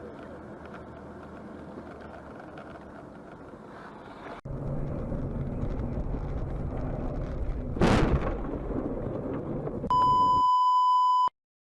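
In-car dash-camera sound of a vehicle driving with steady engine and road noise, cutting about four seconds in to louder driving noise, then a single loud crash of a collision near eight seconds in. A steady high beep follows for about a second and a half before the sound cuts off.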